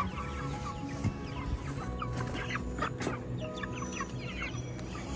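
A flock of broiler chickens clucking, with many short calls overlapping.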